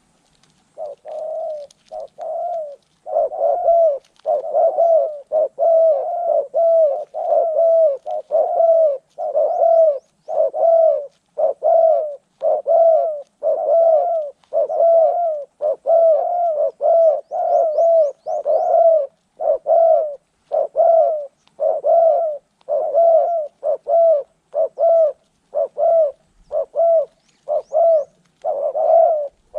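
Spotted dove cooing close by: a long, steady run of short, low coos, a little over one a second, starting about a second in.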